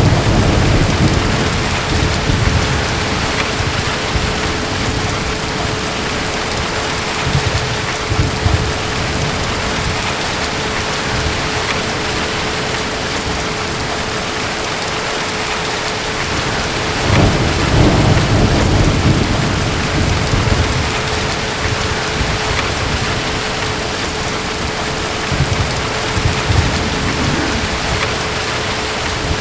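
Thunderstorm: steady rain with several low rolls of distant thunder, the longest a little past halfway.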